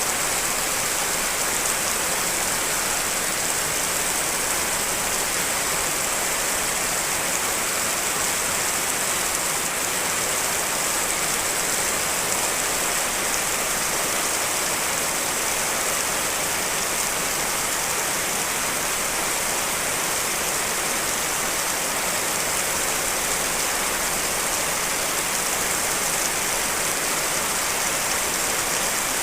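Steady rain from layered real rain recordings: a dense, even hiss that is strongest in the high range and never lets up.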